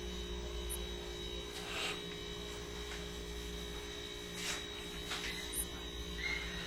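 Steady low electrical hum, with a few faint brief swishes over it.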